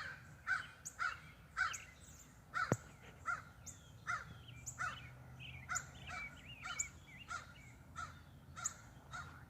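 Crows cawing over and over, about two short caws a second, with small birds twittering faintly in between.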